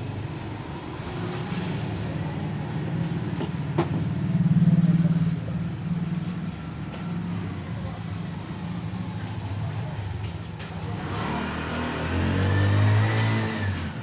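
Small single-cylinder scooter engine running, swelling louder twice as it is revved, about four seconds in and again near the end, with a thin high whine over the first half.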